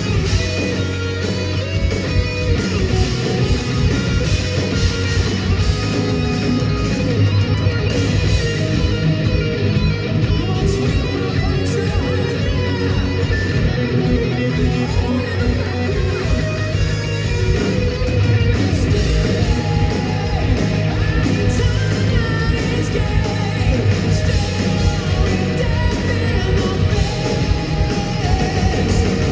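Heavy metal band playing live, with distorted electric guitars, drums and bass, and a singer's voice over the music.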